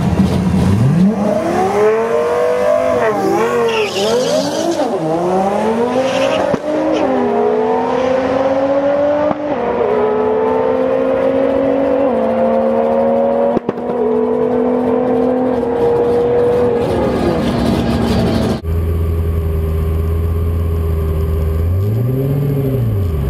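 Twin-turbo Lamborghini Gallardo V10 revving in short swoops, then accelerating hard, its pitch climbing through the gears and dropping sharply at each of several upshifts. It eases off, and near the end the sound cuts abruptly to a lower, steadier engine note with one brief rev.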